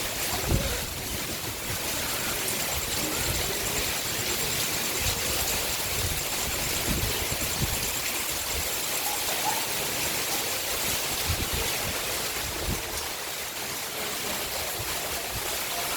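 Hail and heavy rain falling: a steady, even hiss of rain with a few dull thumps standing out now and then.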